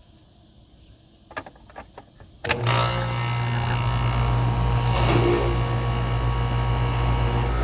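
A few sharp clicks, then about two and a half seconds in an air-conditioning condenser starts suddenly and keeps running with a steady hum: the compressor and condenser fan running on a new run capacitor that replaced a weak one, without tripping the breaker.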